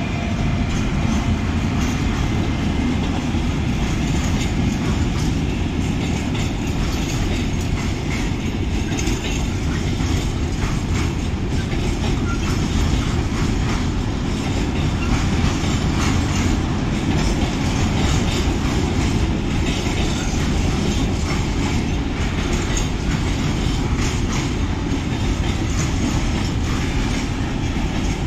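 Freight train wagons rolling by: a steady, loud rail rumble with the clickety-clack of wheels over rail joints all through.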